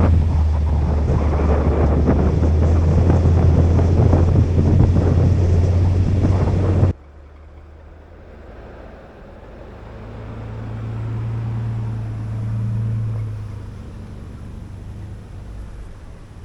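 4x4 truck driving on packed snow: a loud, steady engine hum with dense road and wind noise. It cuts off suddenly about seven seconds in, and a much quieter engine hum then rises and fades again near the end.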